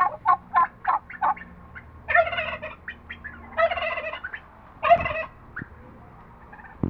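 Domestic turkey calling: a quick run of short clucks, then three longer calls spaced about a second and a half apart. A short knock comes at the very end.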